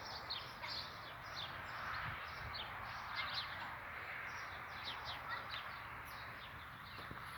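Small birds chirping, a steady run of short, high chirps repeating over a constant outdoor hiss.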